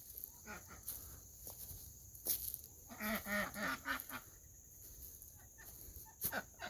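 Ducks calling softly, with a short run of low calls about three seconds in, and a couple of brief knocks.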